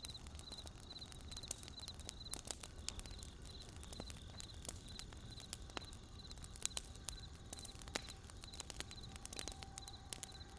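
Wood fire crackling with sharp, irregular pops and snaps, over a low steady rumble. A steady high chirping repeats about twice a second behind it.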